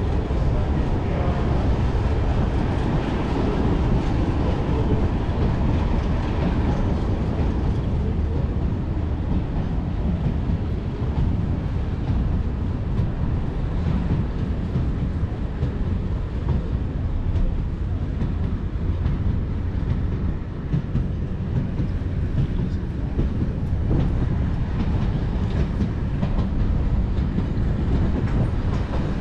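Diesel-hauled train running steadily: a continuous low rumble with wheels clattering over the rail joints.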